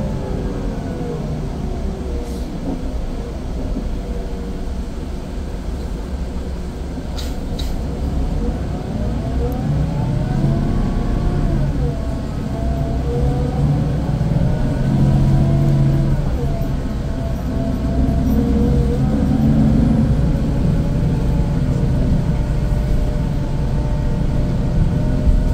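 Scania K410IB coach's 13-litre six-cylinder diesel engine under way, its pitch rising and falling several times as the coach accelerates, changes gear and eases off, over a steady low rumble.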